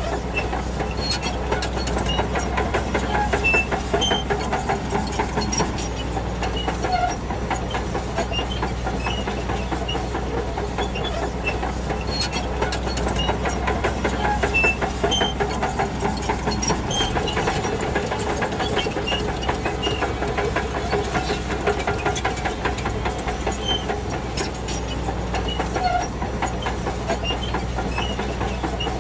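Shantui DH17-C2 crawler bulldozer working: the diesel engine runs with a steady low drone under continuous clanking and squeaking from the steel tracks as it pushes soil. The low engine drone eases briefly a little past halfway.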